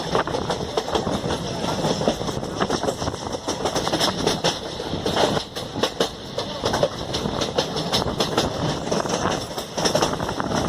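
Koyna Express passenger train running along the track, its wheels clattering steadily with many quick knocks and rattles.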